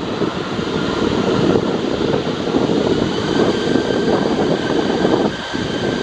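Boeing 747-400 freighter's four jet engines running loud, a dense rumble under a thin whine that rises slowly in pitch.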